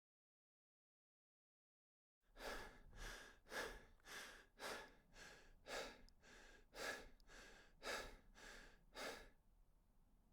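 A person breathing hard and rhythmically, about two breaths a second, starting about two seconds in and stopping shortly before the end.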